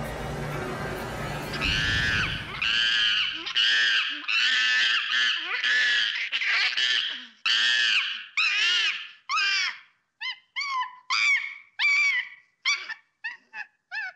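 A string of high, screeching monkey-like calls, each one rising and falling in pitch, about two a second, growing shorter and choppier after about ten seconds.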